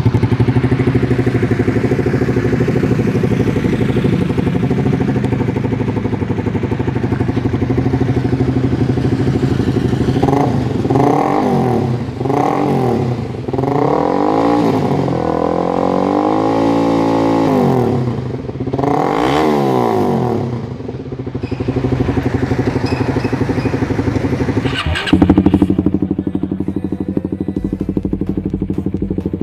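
Suzuki GSX-R150's single-cylinder engine through an aftermarket exhaust, idling steadily, then revved in a series of short blips and one longer rev about a third of the way in, before settling back to idle. A sharp pop or crack stands out near the end.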